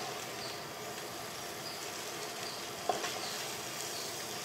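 Rice and vegetables frying in oil in a pot on high heat, with a steady sizzle while a wooden spatula stirs them. One sharp knock of the spatula against the pot about three seconds in.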